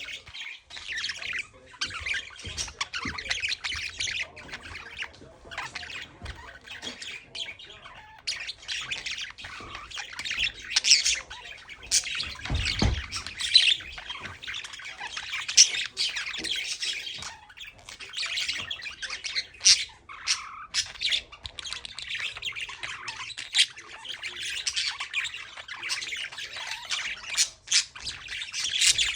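Pet budgerigars chattering continuously, a dense warble of chirps and squawks. A brief low thump comes about halfway through.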